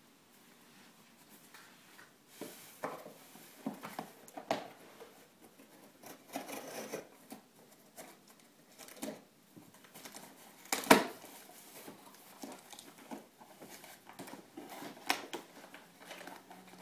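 A cardboard box and its packaging being handled and opened by hand: irregular rustling, scraping and clicking, with one sharp knock about eleven seconds in.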